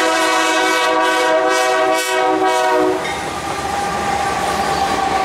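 BNSF freight locomotive's air horn sounding one long blast as the train approaches, cutting off about three seconds in. The double-stack container train's wheels then keep rolling loudly past on the rails.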